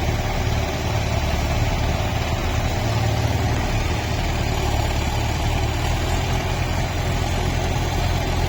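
Tractor's diesel engine running at a steady speed, an even low drone with no change in pitch or level.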